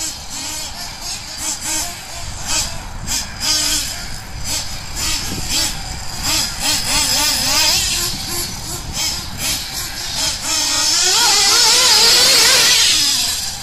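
Twin nitro engines of a 1/8-scale Kyosho ST-RR truggy running and revving as it is driven, their pitch rising and falling with the throttle. The sound swells to its loudest from about ten to thirteen seconds in, then drops away.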